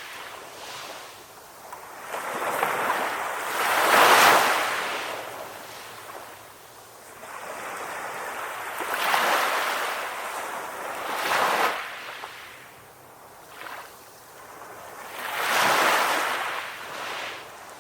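Sea waves breaking on a beach, each wash of surf swelling and fading away, with loud breakers about 4, 9, 11 and 16 seconds in and quieter lulls between.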